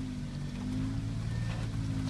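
Off-road vehicle's engine pulling steadily under load as it drives over a trail obstacle, a held, even hum.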